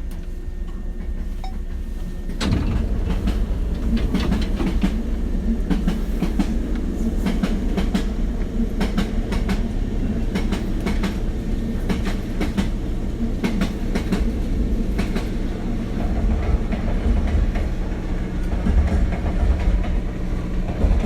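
Running sound inside a Hankyu 7000 series electric train car: a steady low rumble with wheels clacking over rail joints. The noise steps up sharply about two and a half seconds in.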